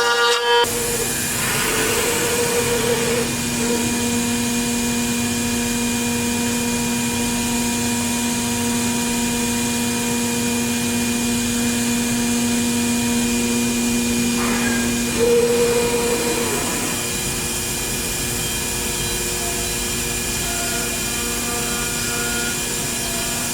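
5-axis CNC router running while engraving wood: a steady whine and hiss from the spindle and cutting. A brief higher tone sounds shortly after the start and again about fifteen seconds in.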